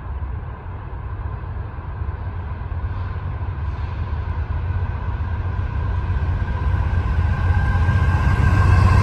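Norfolk Southern diesel locomotives at the head of a freight train approaching: a low engine rumble growing steadily louder as the train nears.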